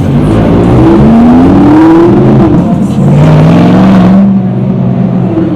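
Chevrolet Corvette C8's V8 accelerating hard past, loud, its pitch climbing, dropping as it shifts up about two and a half seconds in, then climbing again.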